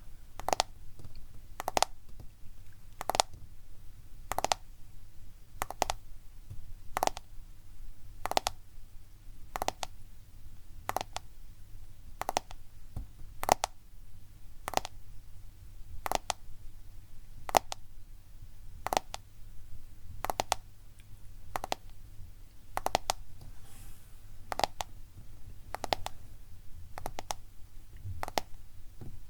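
Slow, steady tapping on a smartphone for ASMR, a crisp click a little over once a second, some taps in quick pairs.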